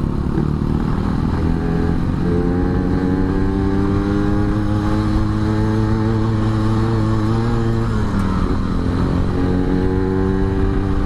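Yamaha RX-King's single-cylinder two-stroke engine under way, its pitch climbing steadily for several seconds as it pulls through a gear. It drops at a gear change about eight seconds in, then climbs again.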